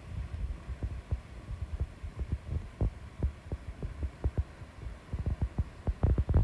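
Rapid, irregular low thumps on the microphone, getting closer together near the end, over a faint steady rush.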